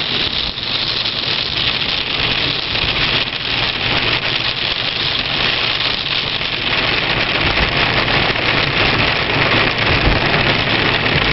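A car driving in rain: a steady hiss of rain and wet road with a low engine hum underneath, growing a little louder in the second half.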